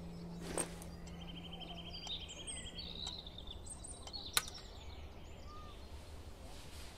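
Birds singing, with a rapid trill of short repeated notes from about a second and a half in, over a faint low held tone that stops about halfway through. Two sharp clicks, the louder near two-thirds of the way in.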